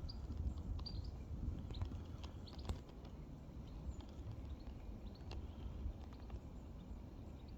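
Outdoor ambience: a fluctuating low rumble like wind on the microphone, with scattered short high chirps and a few sharp clicks, the loudest click about two and a half seconds in.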